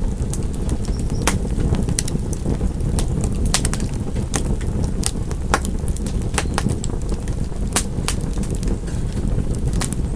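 Wood fire crackling: irregular sharp pops and snaps over a steady low roar of flames.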